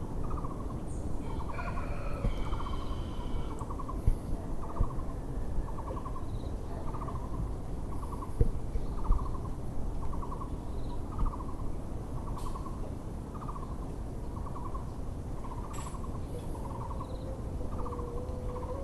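Muller's barbet (Taiwan barbet) calling: a low, hollow note repeated steadily about once a second. Other small birds chirp briefly a few seconds in.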